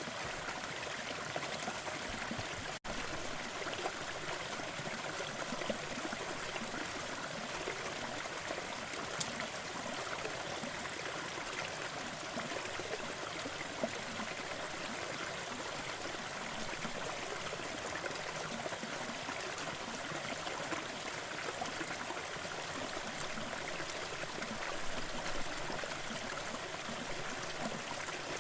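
Waterfall with water rushing and splashing steadily, an even unbroken wash of sound, broken only by a split-second dropout about three seconds in.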